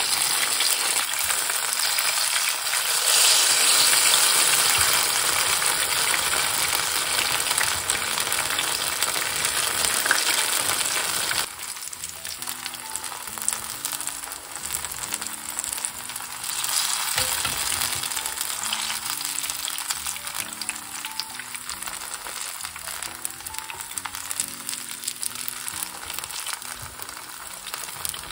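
Batter-coated apple and yuzu-peel fritters (kakiage) deep-frying in a pan of oil at about 160 °C, a steady sizzle of bubbling oil. The sizzle drops sharply in level about eleven seconds in and continues more quietly.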